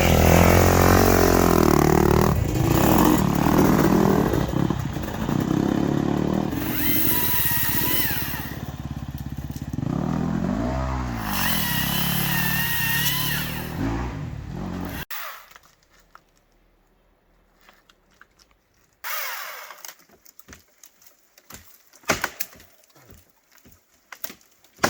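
Dirt bike engines revving and riding past, their pitch rising and falling, until the sound cuts off suddenly about fifteen seconds in. After a few quiet seconds comes a brief whine and then a series of sharp snaps.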